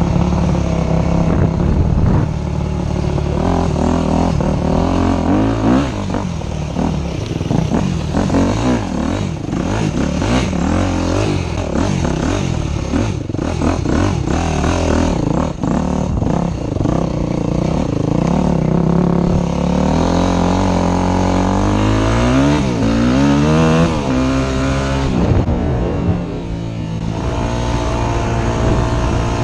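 Motorcycle engine running hard, its revs repeatedly rising and falling as the rider accelerates and shifts.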